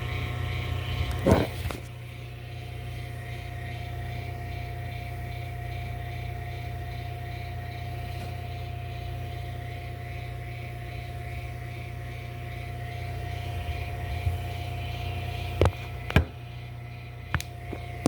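Microwave oven running while it heats food, a steady low hum with a constant mid-pitched tone. There is a single knock about a second in and a few sharp clicks near the end.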